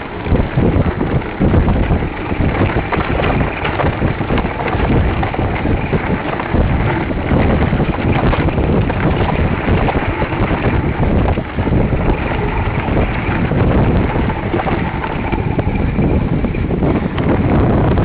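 Heavy wind buffeting on the microphone of a fast-moving mountain bike ride, with frequent knocks and rattles from the bike.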